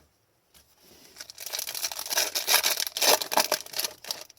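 Foil trading-card pack wrapper and cards being handled: a dense crinkling, crackling rustle that starts over a second in and lasts about three seconds.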